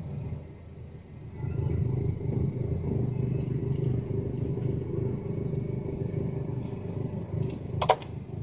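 Car engine running steadily at low revs as the car creeps forward. It drops off briefly near the start and picks up again about a second and a half in. A single sharp snap comes near the end.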